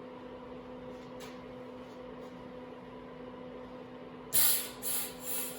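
An aerosol can of expanding spray foam hissing in three short bursts about four seconds in, as foam is pushed through a hose into a hollow handlebar; a steady low hum runs underneath.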